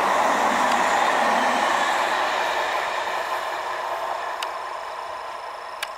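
Electric multiple-unit (MEMU) suburban train running past and moving away, its wheels and coaches rumbling on the rails and fading steadily. Two short sharp clicks come near the end.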